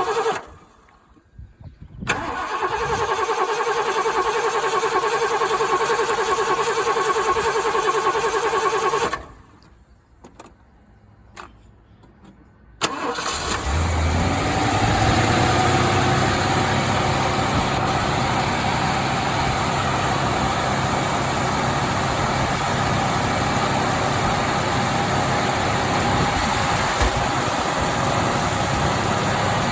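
Mark V car's engine being cold-started after sitting for over three weeks: the starter cranks briefly, stops, then cranks again for about seven seconds without the engine catching. After a pause with a few clicks, the engine fires about thirteen seconds in and settles into a steady idle.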